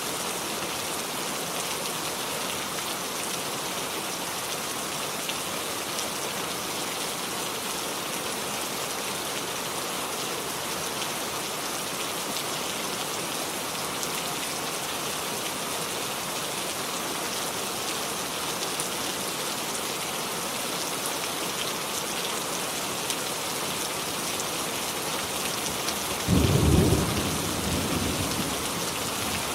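Steady rainfall, an even hiss of rain on surfaces. Near the end a sudden low rumble of thunder breaks in and dies away over a couple of seconds.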